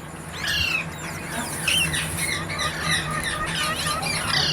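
Green ringneck parakeets calling: a busy stream of short overlapping chirps and squawks, each note quickly rising or falling in pitch.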